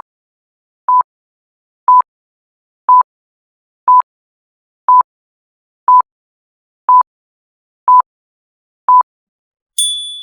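Quiz countdown timer: about ten short, identical electronic beeps, one each second, ending near the end in a higher bell-like ding that rings and fades, marking time up.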